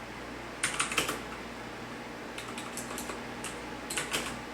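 Typing on a computer keyboard: three short bursts of clicking keystrokes over a steady low hum.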